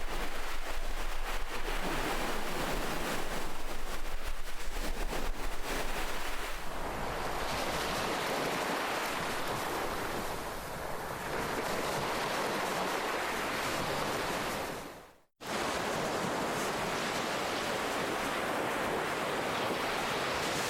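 Ocean waves washing onto a shore, a steady hiss of surf that swells and eases. About fifteen seconds in the sound fades out to a moment of silence, then cuts back in abruptly.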